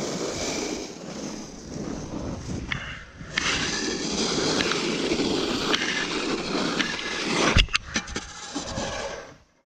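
Snow shovels scraping across pond ice, clearing a patch, in long continuous scrapes with a short break about three seconds in and a sharp knock near the end; the sound cuts off suddenly just before the end.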